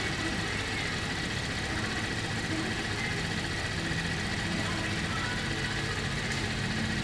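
2015 Holden Commodore's 3.0-litre V6 idling steadily, with a thin steady whine above the engine note.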